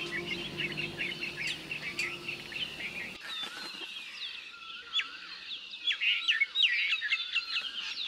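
Many small birds chirping and twittering in a dense chorus of quick, high calls and short whistled slides. The last of a held low flute note fades out in the first two seconds.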